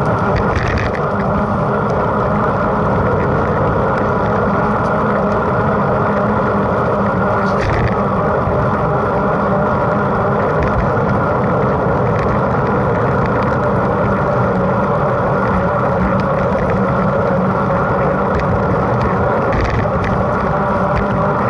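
Steady rushing noise of a mountain bike in motion, wind on the microphone and tyre rumble, with a few brief clicks.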